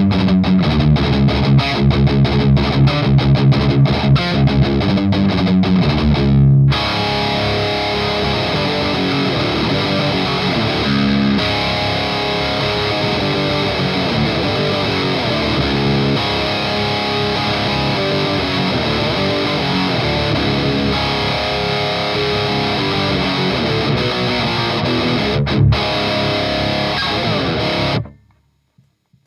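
Distorted electric guitar riff through a Noise Pollution Skull Driver overdrive pedal into an EVH Iconic amp on its crunch channel. It opens with a fast chugging rhythm for about six seconds, then moves to ringing chords and notes, and cuts off abruptly about a second before the end.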